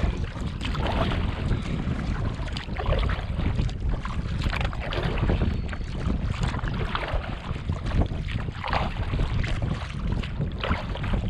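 Wind rumbling on the microphone, with irregular splashes and lapping of water around a canoe on a breezy lake.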